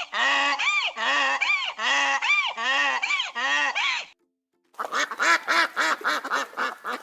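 Donkey braying: a long run of hee-haws, with a held tone alternating with a call that rises and falls. After a short pause about four seconds in, a second, faster run of brays follows.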